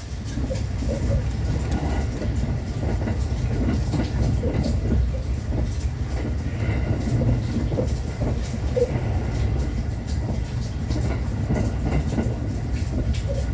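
Thunderbird limited express train running on the rails: a steady low rumble with irregular clicks and knocks from the wheels and track.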